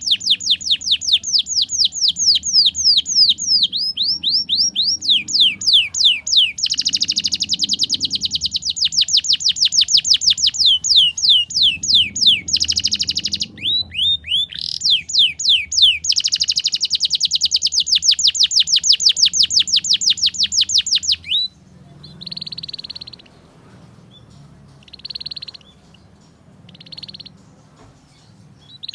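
A canary singing long, fast trills of repeated sweeping notes that change in speed from phrase to phrase. About 21 seconds in the song stops and gives way to short buzzy notes, one every two seconds or so.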